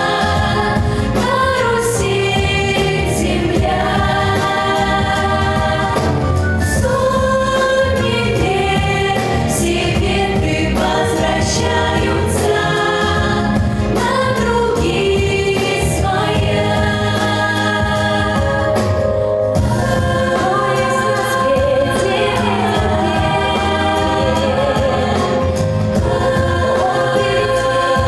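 A vocal ensemble of young singers performing a song together over instrumental accompaniment with a steady beat.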